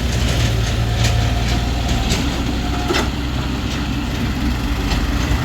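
Diesel tractor engine running steadily, a low drone with scattered clicks and knocks over it, one of them louder about three seconds in.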